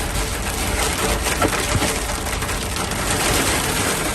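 Hail and heavy rain drumming on a car, a dense, steady clatter of many small ice impacts over the rush of rain and the engine.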